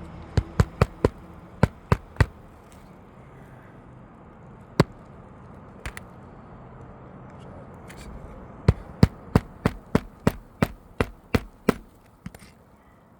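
Hammer driving roofing nails into a replacement asphalt 3-tab shingle: a quick cluster of strikes at the start, a single blow about five seconds in, then a steady run of about ten strikes, some three a second, near the end.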